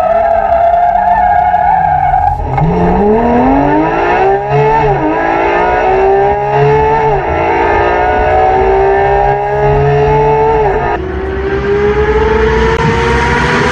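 Porsche 991 GT3's naturally aspirated flat-six running through an FI aftermarket exhaust. It holds a steady high note, drops sharply about two seconds in, then climbs in pitch under acceleration, with the note falling at three upshifts and rising again after each.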